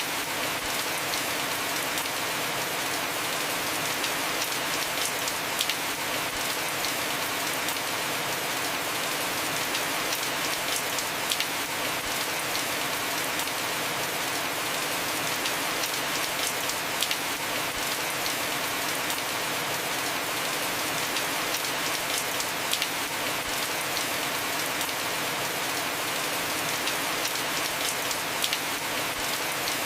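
Heavy rain falling on a roof: a steady hiss with scattered sharp drop hits.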